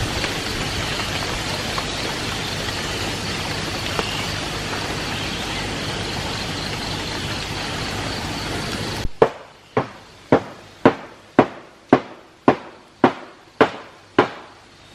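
Steady heavy rain that cuts off abruptly, followed by about ten even hammer strikes, roughly two a second.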